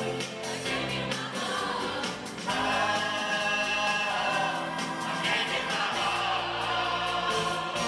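A choir singing a 1970s pop song over a band with a steady beat.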